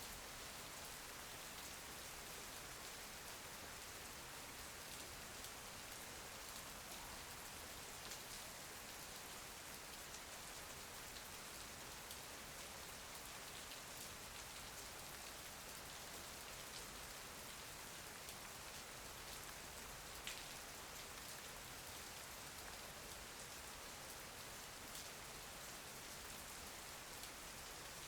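Steady soft rain falling, an even hiss with faint scattered drop ticks throughout.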